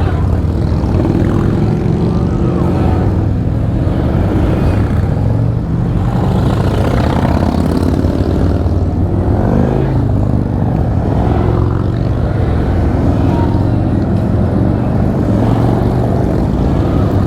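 Many motorcycle engines running together in a steady low drone, mostly Harley-Davidson V-twins. About ten seconds in, one engine note rises and falls as a bike goes by.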